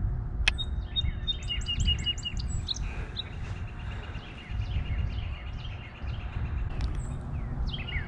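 Songbirds singing: a quick run of chirps about a second in, then a long, even trill lasting several seconds, over a low rumbling noise.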